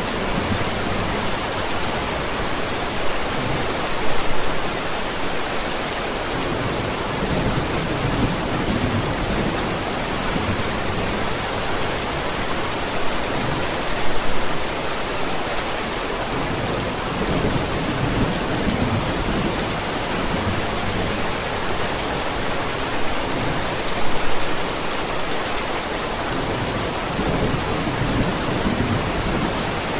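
Steady heavy rain with low thunder rumbling through it. Three brief louder swells come evenly, about ten seconds apart.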